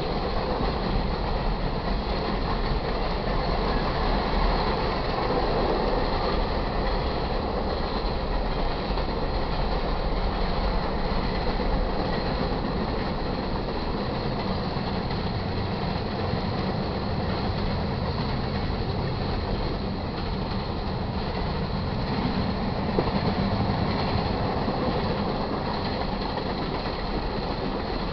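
Freight cars of a manifest train rolling past at speed: a steady rumble of steel wheels on rail, with the rattle and clatter of the cars.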